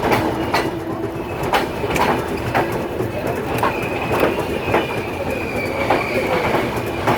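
Train wheels rolling over the track: a steady high-pitched wheel squeal with a run of sharp clacks over the rail joints, about two a second.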